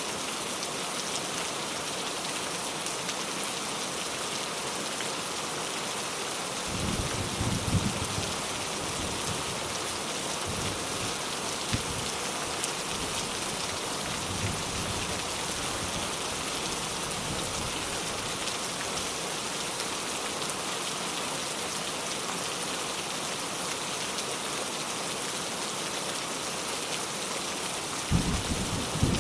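Steady rain falling in an even hiss, with low rumbles of thunder about seven seconds in and again near the end.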